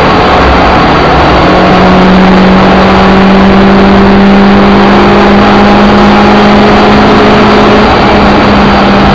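Suzuki Ignis Sport's 1.5-litre four-cylinder engine pulling hard under full load, heard loud from inside the bare cabin. It is a steady drone whose pitch climbs slowly as the revs build.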